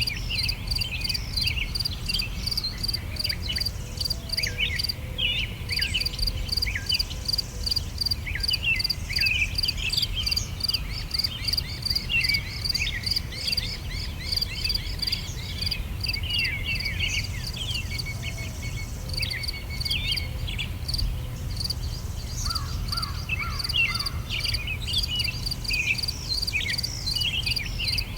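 Summer outdoor ambience: many small birds chirping and twittering in quick short notes over a steady, rapidly pulsing insect chirr like crickets, with a low background rumble underneath.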